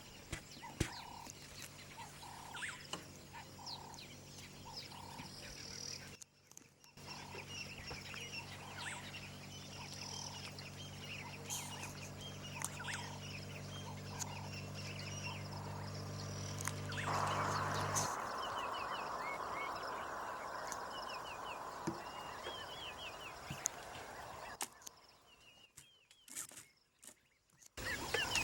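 Wild birds chirping and calling, with one note repeated about twice a second through the first half. A steady low hum runs through the middle, followed by several seconds of hiss.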